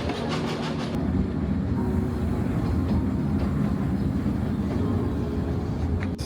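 Puffing Billy narrow-gauge steam train running along the line, a steady low rumble of the carriages on the rails.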